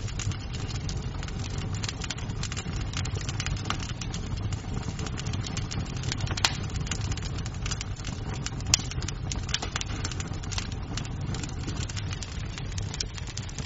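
Wood fire in a fireplace crackling, with a steady low rumble under dense small crackles and two sharper, louder pops, about six and a half and nearly nine seconds in.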